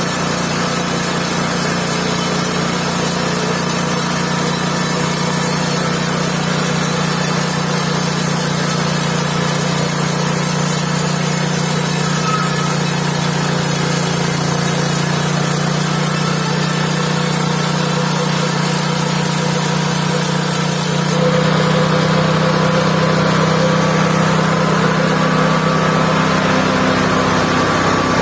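Engine-driven mobile band sawmill running steadily. About two-thirds of the way through, a high hiss stops abruptly and the engine note shifts.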